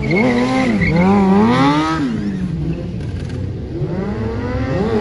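Stunt motorcycle engine revving hard, its pitch swinging up and down twice in the first two seconds, dropping to a lower, rougher run, then climbing again near the end.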